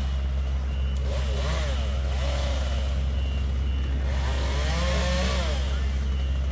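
Tree-work machinery engine running steadily under load, its pitch swelling up and back down several times as it is revved.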